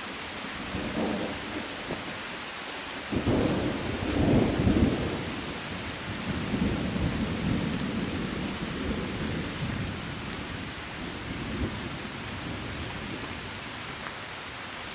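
Heavy rain falling steadily with a long, deep roll of thunder that starts suddenly about three seconds in, is loudest a second or two later, then rumbles on and fades.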